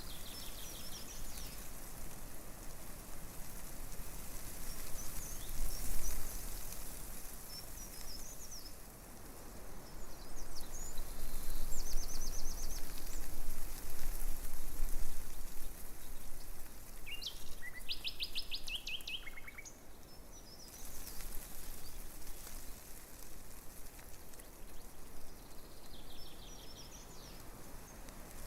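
Wind rustling tree leaves, swelling into a longer gust about a third of the way in, with small birds chirping and giving short rapid trills now and then.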